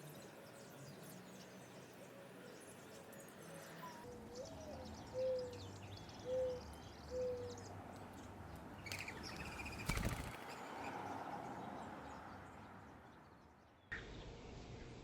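Outdoor background noise with a bird's low four-note call: the first note rises and falls, and three shorter level notes follow. A single sharp knock comes about ten seconds in.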